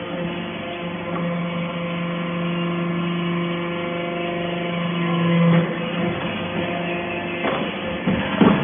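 Hydraulic baler's pump unit running with a steady hum. The hum builds in strength to a peak about five and a half seconds in, then drops back, and a few short knocks follow near the end.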